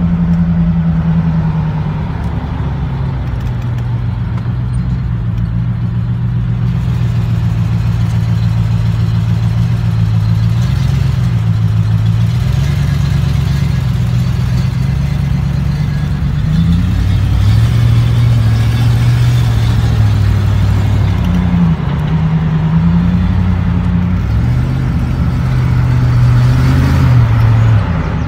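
Range Rover 3.5-litre fuel-injected V8 heard from inside the cabin while driving, a steady low engine note that steps up and down in pitch several times as the throttle and revs change.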